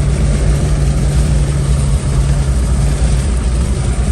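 Off-road 4x4's engine pulling steadily under load, a low, even engine note, as the vehicle is kept moving through sand.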